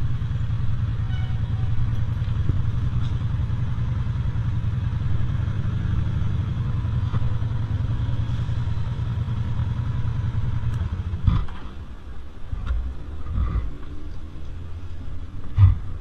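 Motorcycle engine idling steadily, then cutting off about eleven seconds in, followed by a few scattered knocks and clicks.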